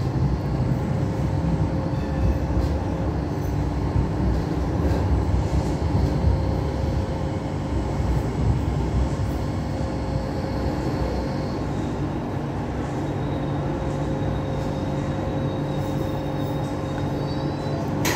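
Hong Kong Light Rail train running on its track: a steady rumble of wheels and traction with a constant hum. A faint high whine comes in over the last few seconds.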